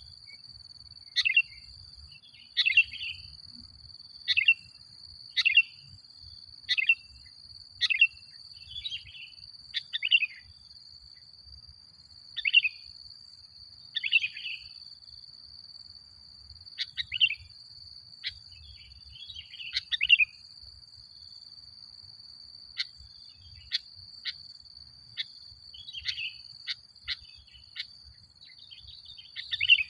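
Sooty-headed bulbul (kutilang) singing short, bright chirping phrases, one every second or two, with a sparser stretch in the second half. A steady high insect-like tone runs beneath throughout.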